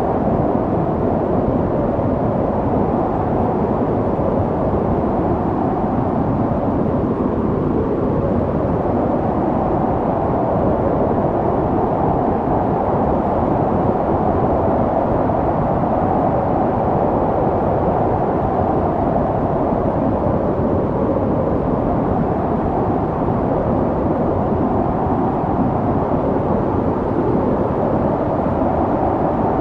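Snowstorm wind blowing in a steady, low rush that swells and eases slowly.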